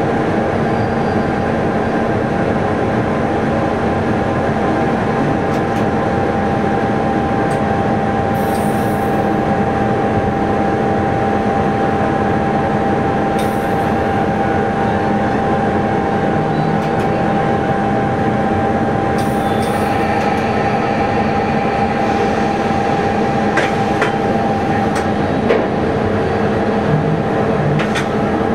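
Train running along the line, heard from inside the driver's cab: a steady drone of running gear and wheels on rail, with a constant whine. A few brief high hisses or squeals cut in now and then.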